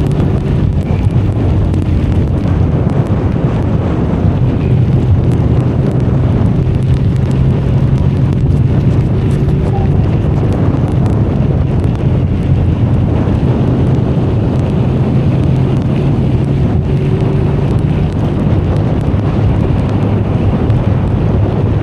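Benelli Leoncino 500 Trail's parallel-twin engine running steadily while riding, under wind rushing over the microphone.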